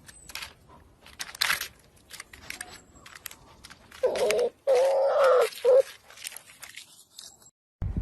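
An animal's cries: three short pitched calls about four to six seconds in, the middle one the longest, over scattered clicks and rustling.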